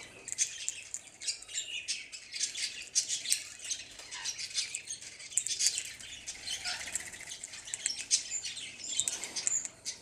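Birds chirping and squawking in a continuous, busy chatter of short high calls.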